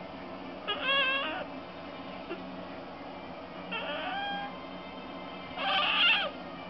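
A cat meowing three times, each call short and bending in pitch; the last is the loudest.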